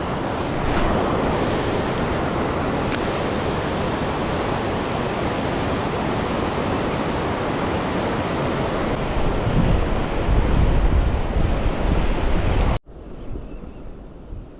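Fast-flowing river water rushing in a steady loud hiss, with wind buffeting the microphone in low rumbles for a few seconds toward the end. Near the end the sound cuts off abruptly to a much quieter background.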